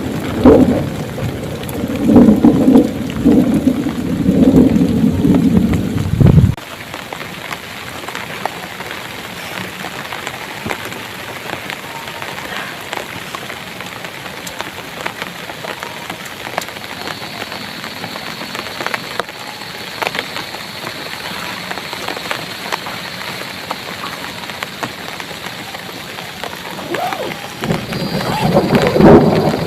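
Thunder rumbling over heavy rain, cutting off abruptly about six seconds in. Steady rain follows, with many individual drops ticking close by. Near the end the thunder rumbles in again.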